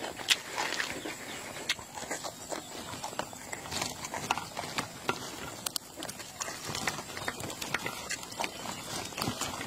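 Close-up eating sounds: chewing with wet mouth smacks and clicks, coming irregularly several times a second.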